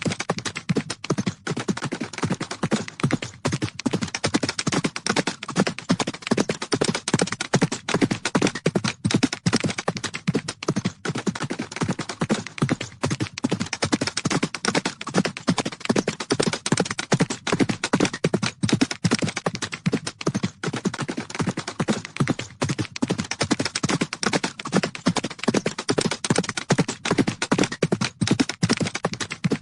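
Horses galloping: a continuous, rapid drumming of hoofbeats on the ground.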